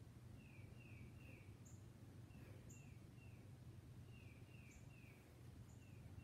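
Near silence: a faint steady low room hum, with a bird repeating a short phrase of three quick descending chirps about every second and a half.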